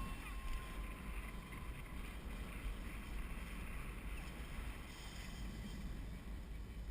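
Wind buffeting a GoPro camera's microphone on a moving bicycle, a steady low rumble with an even rushing noise.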